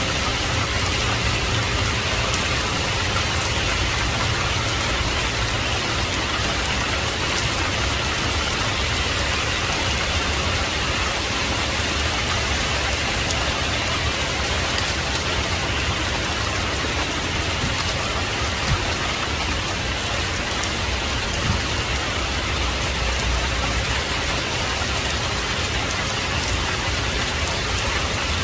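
Heavy rain falling steadily, a dense even hiss of drops with a low rumble beneath, with a faint tap or two in the middle.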